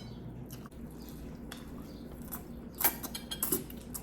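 Scattered small clicks and taps of people eating at a table, several of them bunched together about three seconds in.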